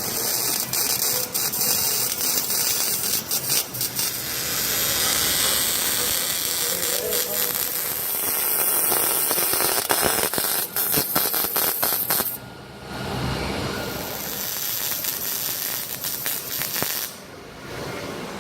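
Shop tools at work on an exhaust installation: a run of sharp clicks and rattles over a loud hiss, pausing briefly twice.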